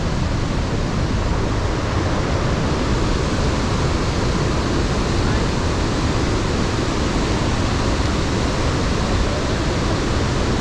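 Iguazu Falls pouring, a loud, steady rush of falling water with no let-up.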